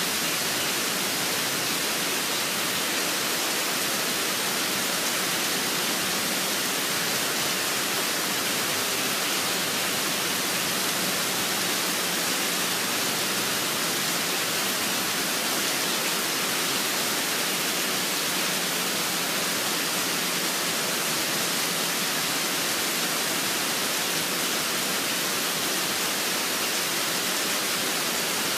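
Steady rainfall: an even, unbroken hiss with no changes.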